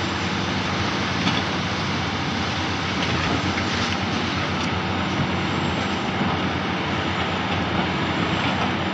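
Heavy diesel mining machinery running steadily, a continuous engine drone with a noisy rumble and no pauses.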